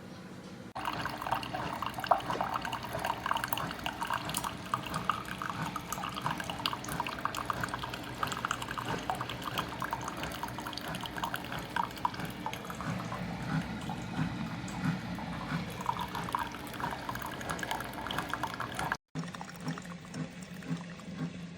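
Single-serve coffee maker brewing: hot liquid streams and sputters into the cup with a steady crackling spatter. It cuts off abruptly near the end, followed by a quieter stretch.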